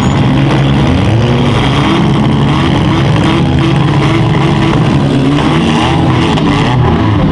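Several small-car demolition derby engines running hard at once, their pitches rising and falling over one another as the drivers rev.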